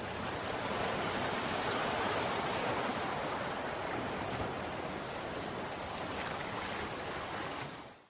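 Steady rushing outdoor noise that fades out quickly near the end.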